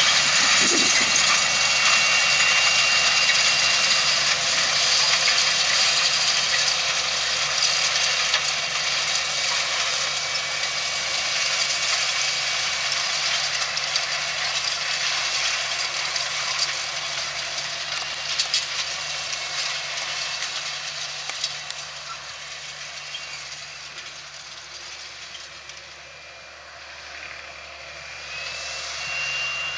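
John Deere 7920 tractor's six-cylinder diesel engine running under load while pulling a Simba Horsch seed drill, with some mechanical rattling, fading steadily as it draws away. A few sharp clicks come around the middle.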